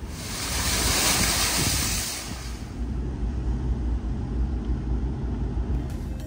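Car driving on a wet road in the rain: a loud rushing hiss of water spray for the first two and a half seconds, then steady low road noise with tyre hiss.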